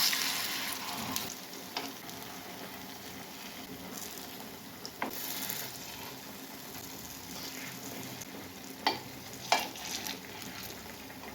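Banana sweet balls sizzling steadily in ghee in the cavities of a paniyaram pan on a medium flame. A few sharp clicks of a utensil against the pan come through as they are turned, the loudest about nine and a half seconds in.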